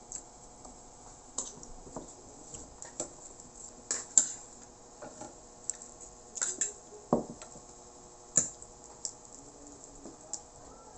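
Someone eating raw vegetable salad close to the microphone: irregular crunches, wet mouth clicks and a few light clinks of utensil on dish, the loudest about four and eight seconds in.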